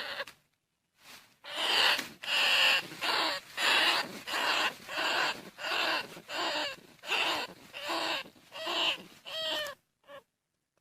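Bandicoot rat calls: a rhythmic run of about a dozen rasping squeals, roughly one and a half a second, the last few with a bending squeaky tone. A recorded rat call used as a lure for trapping or hunting field rats.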